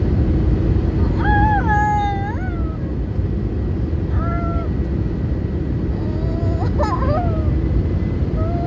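Airbus A320neo cabin noise: a steady low rumble. Three short wavering, pitch-bending tones sound over it, and a steady rising whine begins near the end.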